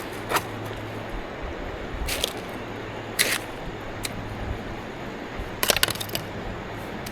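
River gravel and stones knocking and clicking together as they are dug and handled, in a few sharp irregular clicks with a small cluster about two thirds of the way through, over a steady low hum.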